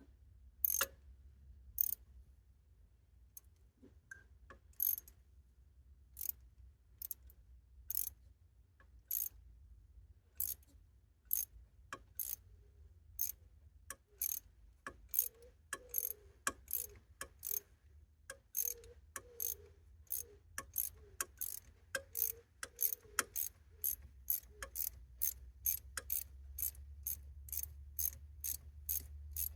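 Ratchet wrench clicking in short strokes as a glow plug is worked loose from a Kubota D905 diesel's cylinder head. The clicks come about once a second at first and quicken to around two a second in the second half.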